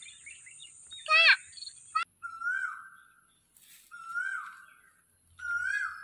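A bird calling: a short falling call about a second in, then a clear whistled note repeated three times, each under a second long, about every one and a half seconds, over a faint steady high-pitched buzz.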